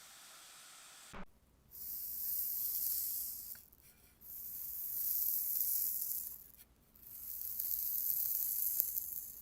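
A click about a second in, then three long high hissing bursts of about two seconds each with short gaps between them, like a spray being released.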